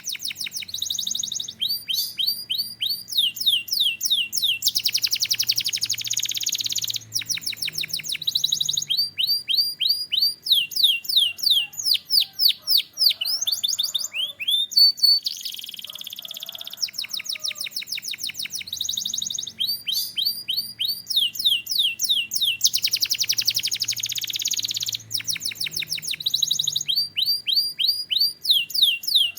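Canary singing a continuous song of rapid high trills, each a quick run of repeated notes, switching from one trill to the next every second or two. About halfway through, the same run of trills starts over.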